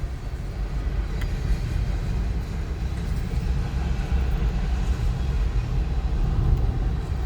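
Steady low rumble of a car running on the road, heard from inside the cabin.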